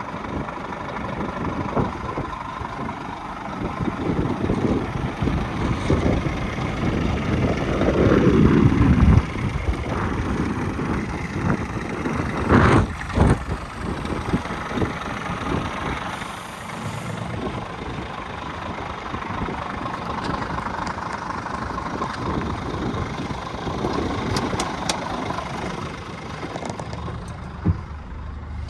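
Scania R450 truck's diesel engine running, its sound swelling to a loud peak with a falling pitch about nine seconds in and then dropping back, with a brief loud burst about thirteen seconds in.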